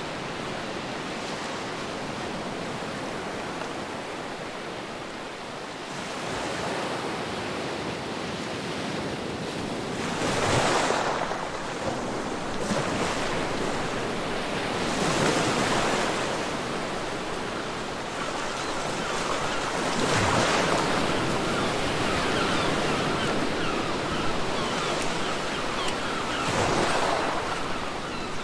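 Ocean waves breaking and washing up a beach, a steady rush of surf that swells louder four times, about every five seconds.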